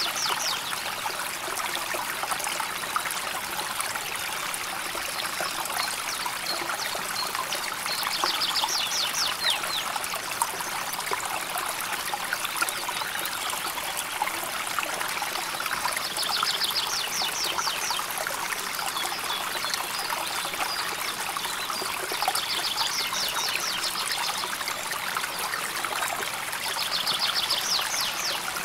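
River water flowing and trickling steadily over stones. A bird sings a fast trill of rapid repeated notes four times, several seconds apart.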